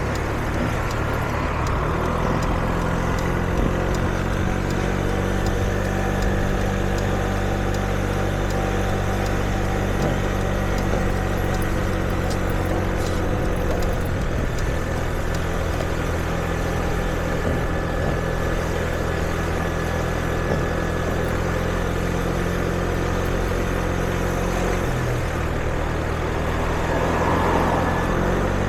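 Street traffic with vehicle engines idling: a steady low engine hum over general street noise.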